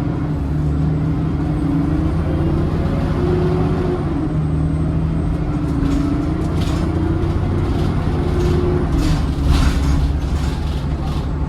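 Alexander Dennis Enviro400 double-decker bus heard from on board while driving: a steady engine drone with a whine that shifts in pitch, and several short air hisses about two-thirds of the way in.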